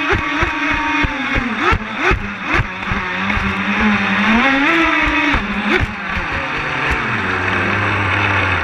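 The twin brushless electric motors of an RC catamaran speedboat whining, the pitch dropping, rising again about halfway through and falling lower near the end as the throttle changes. Repeated sharp slaps run through it.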